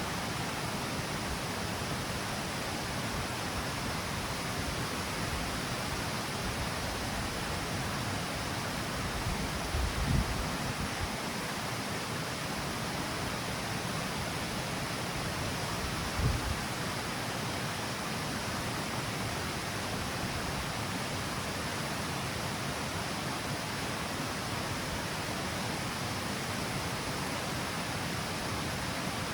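Water pouring steadily down a stepped, L-shaped river waterfall: a constant, even rush. Two brief low thumps break in, about a third of the way in and again just past halfway.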